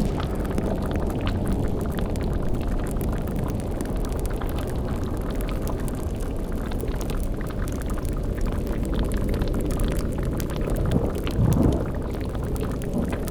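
Spooky sound-design ambience: a steady low rumble under the bubbling of a boiling cauldron, with scattered crackles throughout and a louder low swell about eleven seconds in.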